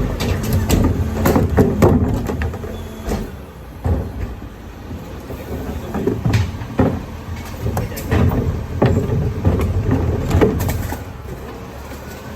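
Garbage truck working: the engine runs under a string of sharp metal clanks and knocks from its loading gear. The clanks are thickest in the first two seconds and again from about six to eleven seconds in, with a quieter stretch between.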